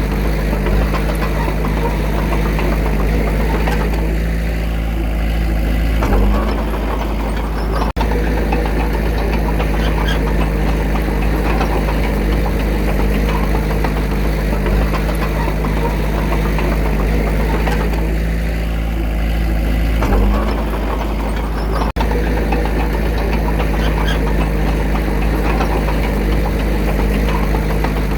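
Diesel engine of heavy earthmoving machinery running steadily, with brief jolts about 6 and 20 seconds in and short dropouts about two seconds after each.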